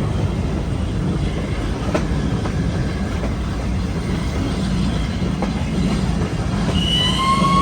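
Train running along the track: a steady low rumble with a light click from the rail joints every second or so, and a brief high ringing tone near the end.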